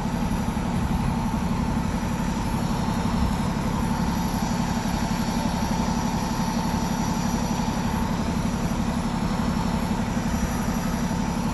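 A large vehicle's engine idling steadily, a low even rumble with a steady tone running over it.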